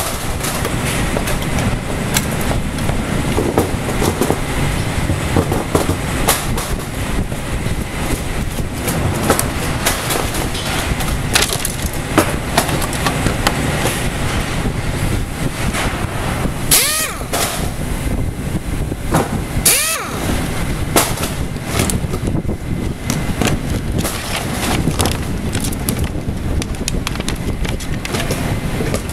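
Repeated clicks and knocks of hand tools and metal parts while a power supply is taken apart, over a steady low rumble, with two louder scraping sweeps a little past halfway.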